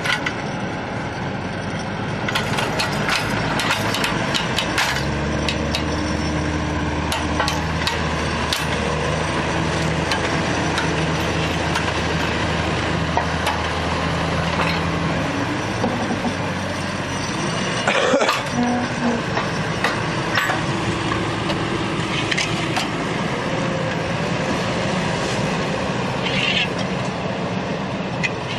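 Heavy vehicle engine running amid scattered clanks and knocks, its steady hum standing out for about ten seconds in the middle; a sharp, sudden noise comes about eighteen seconds in.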